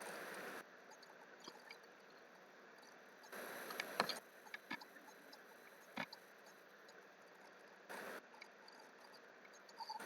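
A few scattered sharp clicks from working a computer, over faint steady room noise, with three short bursts of hiss, the longest about a second long midway.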